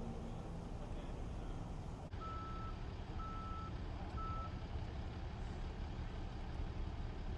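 Reversing alarm of a backing vehicle beeping three times, about one beep a second, over a steady low engine rumble.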